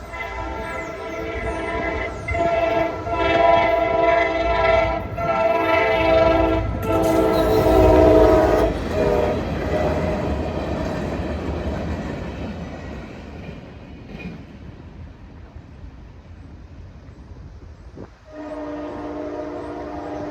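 Wheeling and Lake Erie diesel locomotive 7019's horn sounding a series of blasts for a grade crossing, with the loudest rumble of the engine and train as it passes about 8 seconds in. The train rumble then fades, and a lower-pitched horn sounds again near the end.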